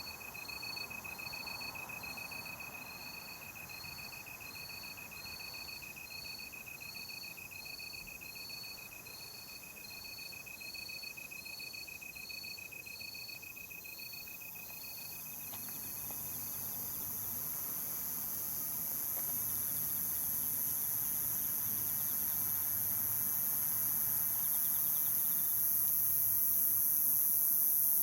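Night insect chorus: one cricket trills steadily while another chirps about once every second and a half. Both stop about two-thirds of the way through as a high, hissing insect drone swells louder.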